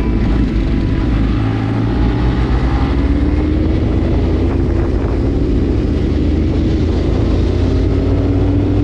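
A Kawasaki H2's supercharged inline-four engine pulling under acceleration, its pitch climbing steadily. Near the end the pitch drops back and climbs again, as at a gear change.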